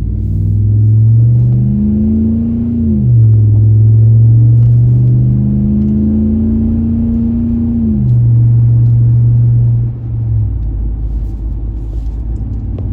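Exhaust of a 2019 Ram Rebel's 5.7 HEMI V8 with the muffler and resonator deleted, heard from inside the cab, accelerating through the gears. The note climbs, drops at an upshift about three seconds in, climbs again and drops at a second upshift about eight seconds in, then holds steady and eases off about ten seconds in.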